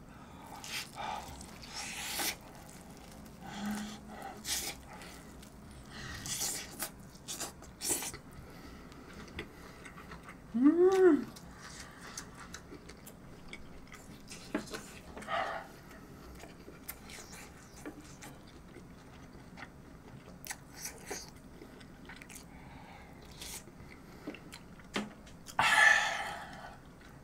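A person chewing tender braised pork rib meat close to the microphone, with wet mouth clicks and smacks. About eleven seconds in there is a short hum that rises and falls in pitch, and near the end a loud "ahh" exclamation of delight.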